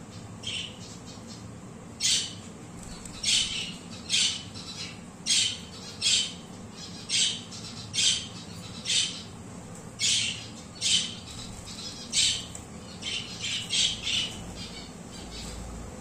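A bird giving short, high-pitched calls about once a second, some in quick runs near the end.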